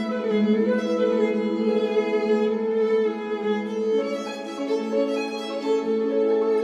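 Background music led by violin: sustained bowed string notes changing pitch every second or so.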